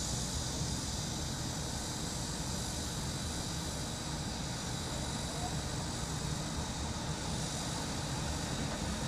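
Summer cicadas buzzing in a steady, unbroken chorus over a low, steady rumble of city traffic.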